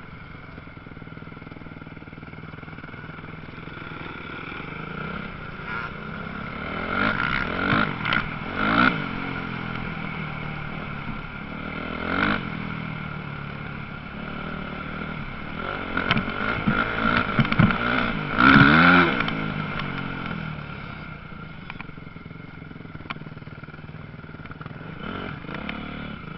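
Motocross dirt bike engines revving on the track, rising and falling in pitch as the bikes accelerate and pass. There are two louder passes, about a third of the way in and the loudest about two-thirds in, over a constant engine drone.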